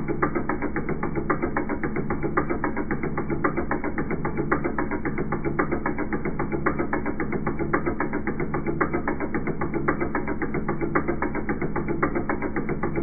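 Direct fuel injectors on an injector test bench, pulsed in a rapid, steady run of clicks over the constant hum of the bench while they spray for a pattern and flow test.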